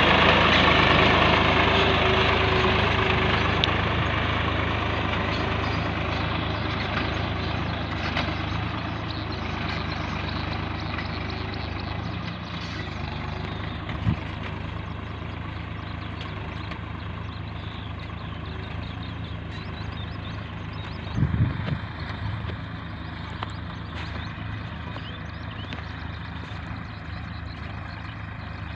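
Swaraj 960 FE tractor's diesel engine running steadily, growing gradually quieter. A short knock about halfway through and a brief cluster of knocks later on.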